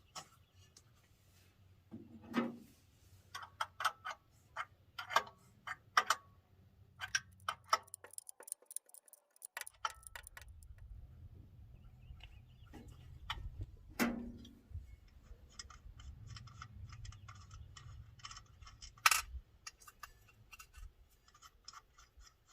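Hand tools on metal: a wrench clicking and nuts clinking as new exhaust studs are run in and tightened with two nuts locked together. The clicks come in irregular runs, denser in the second half, with a few louder knocks.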